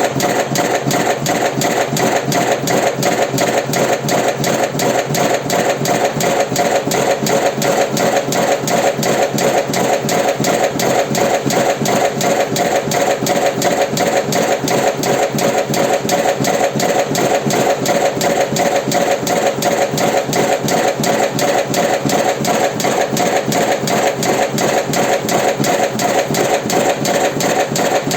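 Automatic electric cigarette-rolling machine running, a steady motor hum under an even mechanical clatter of about three strokes a second as it fills and turns out cigarettes.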